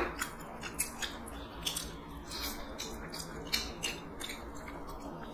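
Close-miked eating sounds: chewing of rice and chicken curry eaten by hand, with irregular small clicks and wet smacks.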